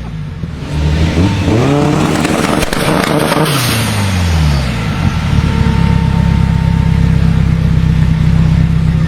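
BMW performance car engine revved once, the pitch rising quickly and then falling back, before it settles into a steady idle about halfway through.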